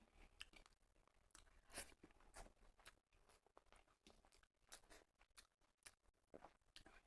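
Faint close-miked eating sounds: chewing and wet mouth clicks of a person eating rice with dal and dry fish curry, coming as irregular short crackles a few times a second.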